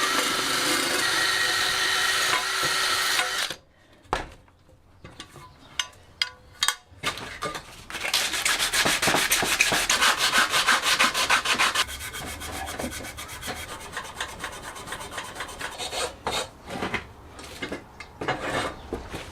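A power tool runs steadily and cuts off about three and a half seconds in. After a few knocks and clicks there are about four seconds of rapid rubbing strokes on a part, like sanding or filing by hand, then lighter rubbing and handling clicks.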